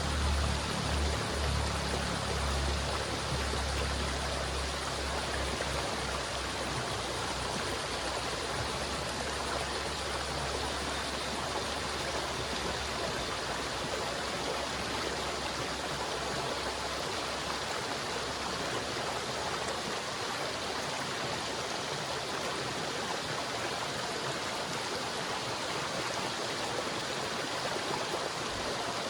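River water flowing steadily in an even rushing stream. A low rumble under it is strong at the start and fades away by about two-thirds of the way through.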